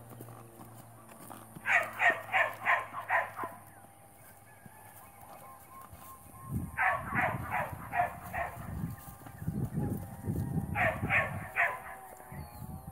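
A bird calling three times, each a quick run of four or five harsh, repeated, fowl-like notes: about two seconds in, near the middle and near the end. Low irregular thuds sound under the second and third runs.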